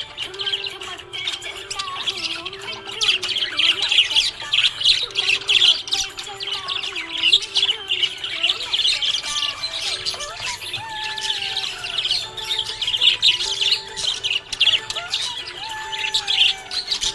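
Budgerigar chirping and chattering in a continuous stream of rapid, high chirps.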